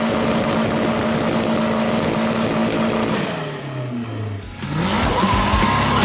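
Turbocharged SR20DE four-cylinder engine in a Nissan Sentra running at high revs with a steady note, then the revs fall away about three seconds in and climb again near the end.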